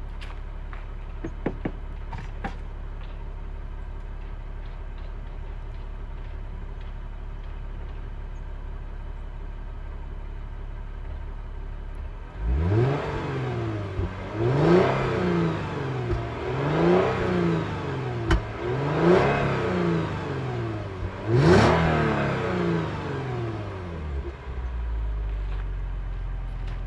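2015 Lexus GS350 F-Sport's 3.5-litre V6 idling steadily, then revved five times in quick succession in sport mode, each rev rising and falling in pitch, with a little poppy sound from the exhaust midway through. It settles back to idle near the end.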